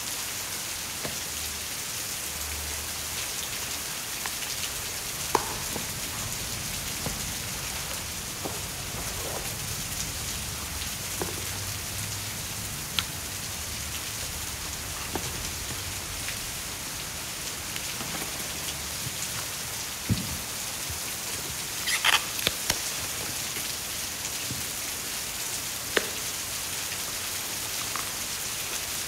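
Steady rain hiss, with a few light clicks and rustles of paper and plastic sleeves being handled, a small cluster of them about two-thirds of the way through.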